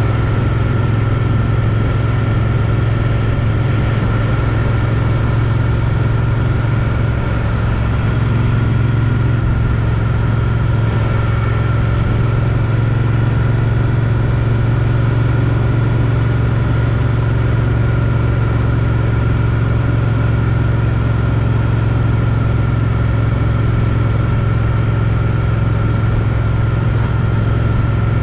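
Triumph Street Twin's 900 cc parallel-twin engine through its stock exhausts, running steadily at an even cruising pace, heard from a helmet chin mount.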